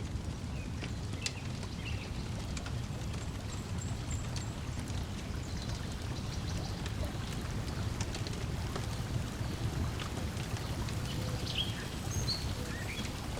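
Lake water lapping against the shore in a steady low wash, with scattered sharp crackles from a wood fire and brief bird chirps.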